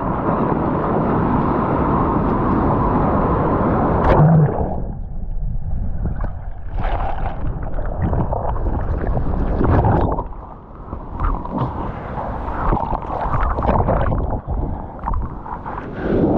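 Breaking surf and whitewater rushing over the camera: a steady rush, a sudden loud hit of a wave just after four seconds, then muffled, uneven churning and gurgling of turbulent water with repeated surges.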